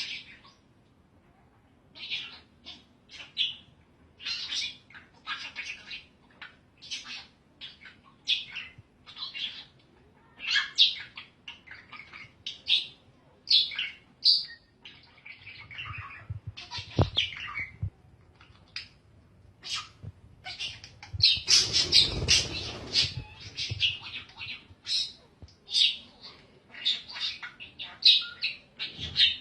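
A long series of short, high-pitched animal calls, about one or two a second, with a stretch of rustling noise about three-quarters of the way through.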